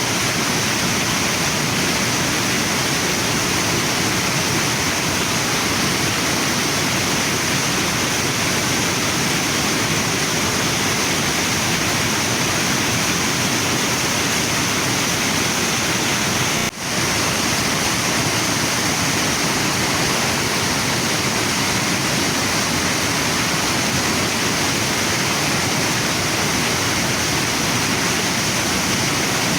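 Waterfall and river water rushing in a steady, full noise, with a momentary dropout a little over halfway through.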